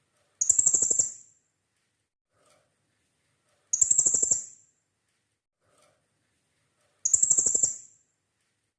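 Blue-crowned hanging parrot (serindit) calling: a high, shrill call made of rapid pulses, about a second long, given three times at even gaps of about three seconds.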